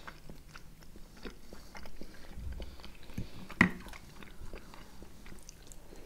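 Two people chewing and biting boiled vareniki with sour cream: soft chewing with many small clicks, and one sharp click a little past halfway.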